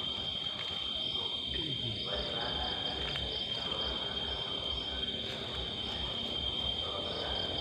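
Insects calling in a steady, high-pitched chorus, one unbroken buzzing trill with a faster pulsing call layered above it.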